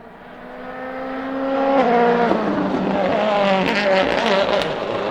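A turbocharged World Rally Car approaching, its engine note rising and growing louder. About two seconds in, the pitch drops in steps as it lifts off and changes down, followed by a quick run of pops and crackles from the exhaust.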